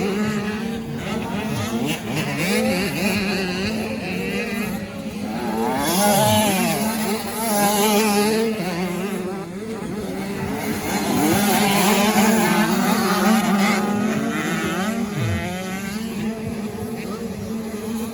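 Several 85 cc two-stroke motocross bikes racing, their engines revving up and down and overlapping as they pass. A steady low hum runs underneath.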